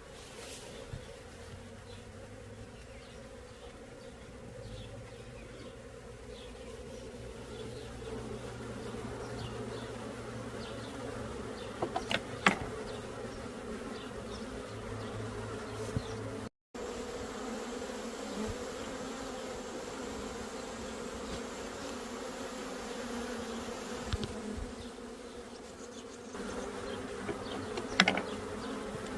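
Many honeybees buzzing together in a steady, dense hum. A few sharp clicks come about twelve seconds in and again near the end, and the sound drops out for a moment about halfway through.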